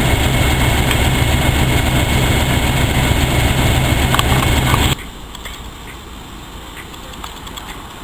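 A vehicle engine running steadily with a low hum, cutting off abruptly about five seconds in to a much quieter background.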